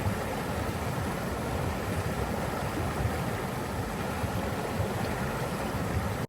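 Flowing water rushing steadily, as from a stream or waterfall.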